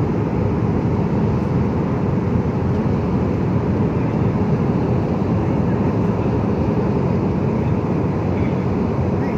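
Steady engine and airflow noise inside a jet airliner's cabin in flight: a constant low, even rush.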